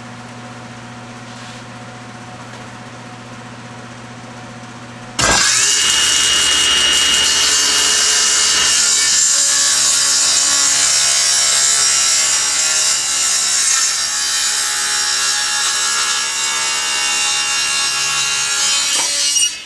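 A steady machine hum, then about five seconds in a table saw blade bites into a thick oak board and runs a long diagonal taper cut through it with a tapering jig. The loud cutting noise holds for about fourteen seconds and stops sharply near the end.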